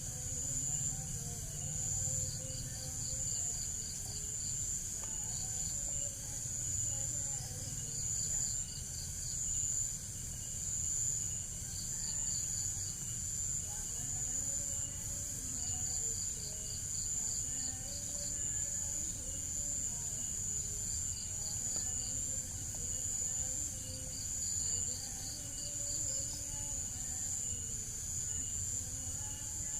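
Ambient insects: a steady high-pitched drone, with short pulsed trills that recur every couple of seconds, over a low background rumble.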